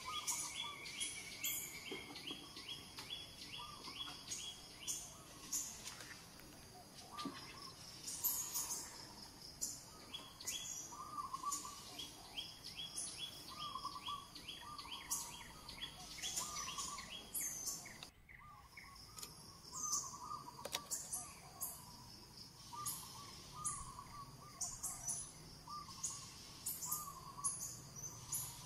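Outdoor birdsong: many small birds chirping, with quick runs of short high chirps and lower warbling calls repeating between them.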